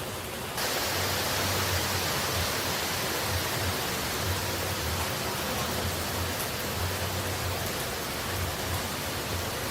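Steady rushing of falling water, an even hiss with no distinct drops, which jumps abruptly louder and brighter about half a second in.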